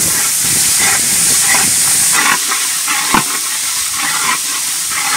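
Onions and ginger-garlic paste sizzling in hot oil in a pan, stirred with a ladle in scraping strokes about once a second, with one sharp knock of the ladle about three seconds in.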